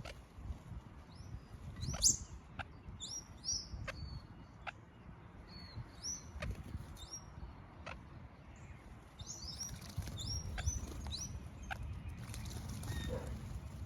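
Red-capped parrots calling: a series of short, high chirps in loose groups, busiest about two to four seconds in and again around ten to eleven seconds in, with scattered sharp clicks.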